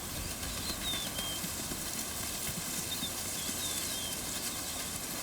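Open savanna ambience: a steady outdoor hiss with a few short, high bird chirps, and a faint irregular low patter beneath.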